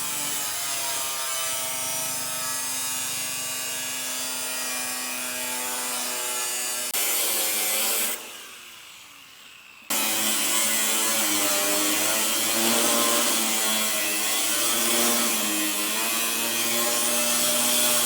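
A power tool running and cutting, its steady whine dipping slightly in pitch as it bites. It comes in several segments that change abruptly, with a quieter stretch from about eight to ten seconds in.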